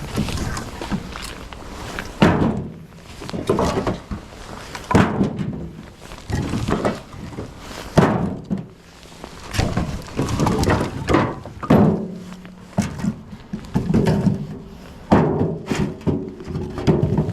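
Split firewood pieces knocking and thunking against each other as they are stacked by hand into a display shelf, about one knock every second or so, some with a short hollow ring.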